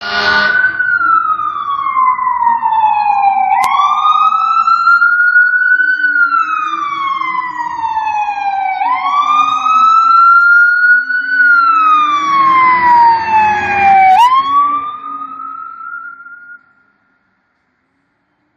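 Fire truck siren wailing as the fire apparatus responds. Each cycle falls slowly in pitch and then jumps quickly back up, about every five seconds, over the rumble of the truck's engine, which is loudest near the end. The sound stops abruptly a couple of seconds before the end.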